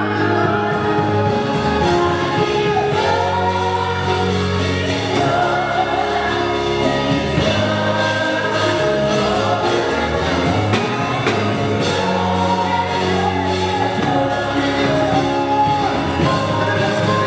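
Gospel choir singing with instrumental backing: voices holding long notes over sustained bass.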